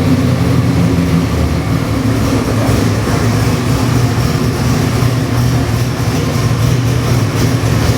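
Ford 408 cubic-inch Windsor stroker V8 with multi-port fuel injection, running steadily at idle on an engine dyno without revving.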